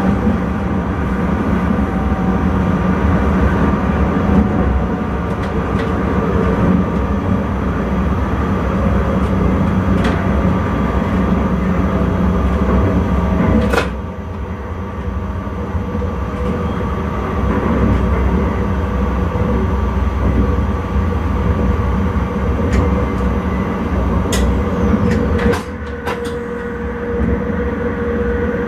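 Intercity train running along the line, heard from inside the driver's cab: a steady rumble of wheels on rail with a running hum and a few sharp clicks. The noise drops slightly about halfway through and again near the end.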